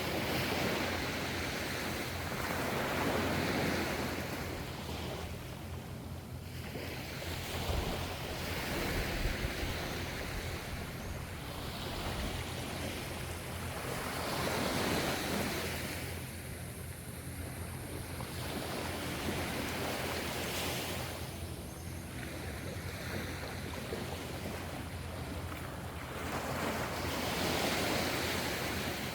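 Ocean waves breaking and washing in, the hiss of surf swelling and ebbing every few seconds over a steady low rumble.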